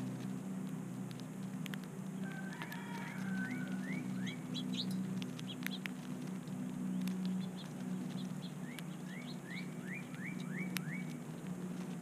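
A songbird calling in two quick runs of short, rising whistled notes, a few seconds apart. Under it are a steady low hum and scattered light clicks.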